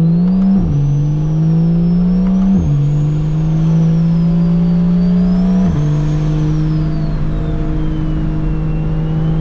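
Single-turbo BMW N54 inline-six engine accelerating from a stop and upshifting three times: about half a second in, near three seconds and near six seconds, the engine note drops at each shift and then climbs again. A faint high whistle rises and falls above the engine.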